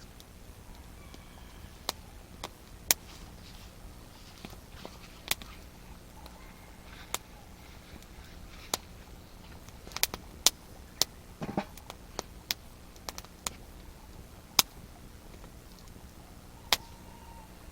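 Wood campfire crackling, with irregular sharp pops from the burning wood, some much louder than others and clustered around the middle.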